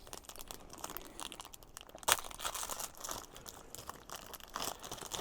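Plastic MRE packaging crinkling and rustling as it is handled and pulled open, with a sharper crack about two seconds in.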